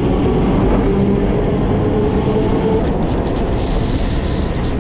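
Electric suburban train running along the line, heard from aboard: a steady rumble of wheels on track, shortly after pulling away from a station. A faint steady whine rides on the rumble for the first half of the sound, then fades.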